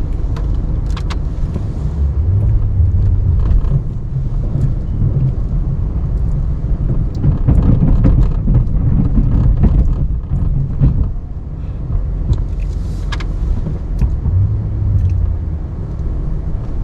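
Ram 1500 Classic pickup's engine running steadily under load while plowing snow. It swells louder for a few seconds about halfway through, with scattered knocks and clicks.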